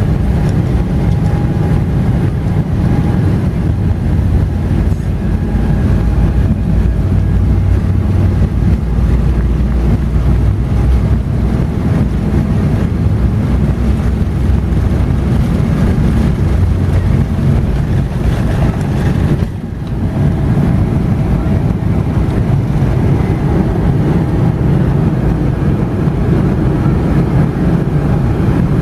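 Boeing 777-300ER jet noise: a loud, steady, deep rumble with faint steady tones above it, dropping out briefly about two-thirds of the way through.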